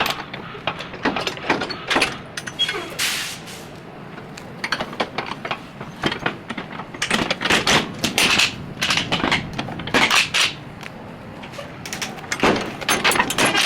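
Metal cargo-strap hardware being handled in a trailer: a series of irregular clanks, clicks and knocks, coming in clusters around the middle and again near the end.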